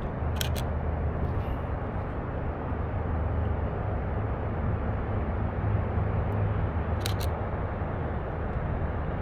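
Canon EOS RP camera shutter firing twice, each release a quick double click, about half a second in and again about seven seconds in, over a steady low rumble.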